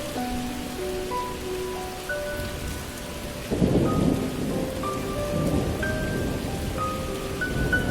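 Steady rain with a rumble of thunder rolling in about three and a half seconds in, under a slow, soft melody of single held notes.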